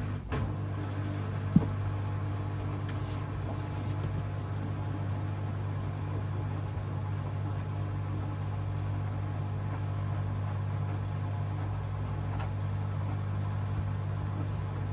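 Hoover DXOA610AHFN-80 washing machine running in the wash phase of a 60°C Mixed cycle, with the water at about 55°C and still heating. It gives a steady low hum, with one sharp click about a second and a half in.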